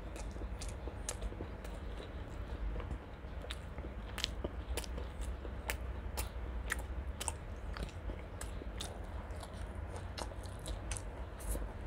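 Close-miked chewing of a mouthful of chicken liver and gizzard curry with rice: a run of sharp, irregular wet mouth clicks and crunches.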